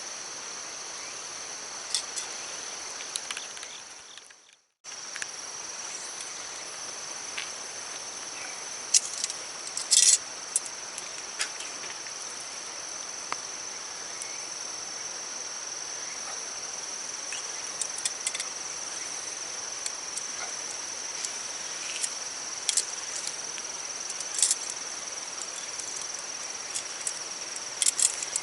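Steady high-pitched insect chorus over a constant rushing hiss of stream water, with scattered sharp clicks and pops. The sound fades out about four seconds in and comes back after a brief gap.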